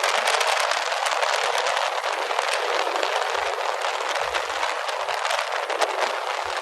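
Steady rushing wind and road noise from riding a motorcycle at speed, with scattered sharp clicks and rattles; no engine note stands out.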